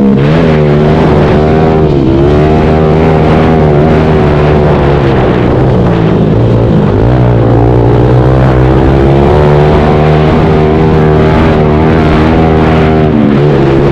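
Pit bike engine running hard under race throttle. Its pitch rises and falls with the throttle, with a few short drops in revs as gears change or the rider backs off.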